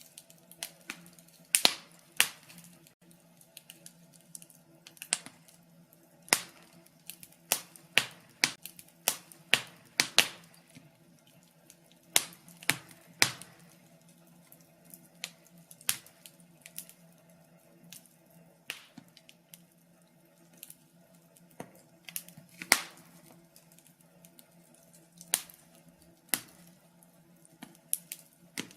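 Wood fire crackling in a fireplace: irregular sharp pops and snaps of varying loudness, several a second at times, over a faint steady low hum.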